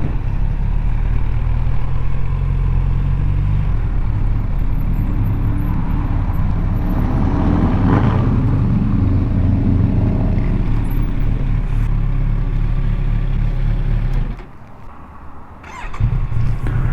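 Kawasaki Z900RS inline-four engine running under way, its pitch shifting as speed changes, with a swell of road noise about halfway through. The sound drops away briefly near the end.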